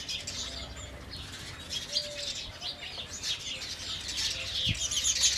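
House sparrows chirping, many short overlapping chirps from several birds at once, growing louder near the end.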